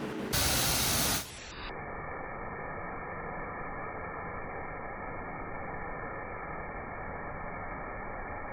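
High-pressure spray wand at a self-serve car wash, spraying water steadily with an even hiss; a louder, sharper burst of spray comes in the first second.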